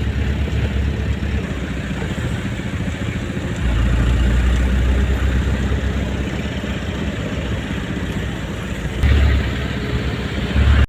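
Motor vehicle running with a steady low rumble that gets louder about three and a half seconds in.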